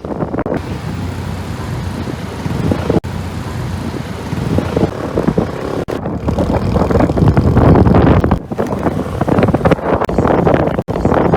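Wind rushing over the microphone with a vehicle's motor running underneath, the sound dropping out sharply for a moment several times.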